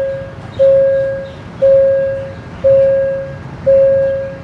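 Railway level-crossing warning bell ringing, one clear tone struck about once a second, each strike fading before the next.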